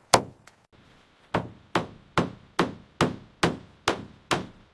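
Hammer strikes: one blow, a pause of about a second, then a steady run of blows a little over two a second, each ringing briefly.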